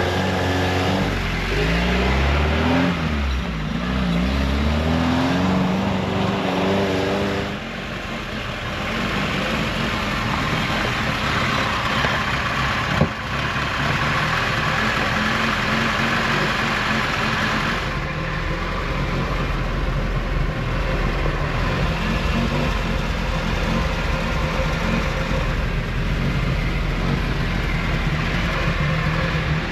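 A car engine running, its pitch rising and falling with the revs for the first several seconds, then a steady running noise for the rest.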